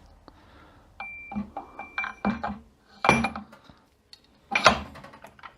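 Metal transmission parts and hand tools clinking and knocking against each other on a 42RE overdrive assembly, with one short ringing note near the start of the run. An irregular string of clicks and knocks begins about a second in; the loudest come near the middle and near the end.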